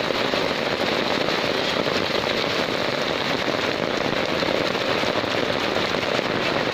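Heavy monsoon rain pouring down, a steady dense patter of drops striking a hard surface close by.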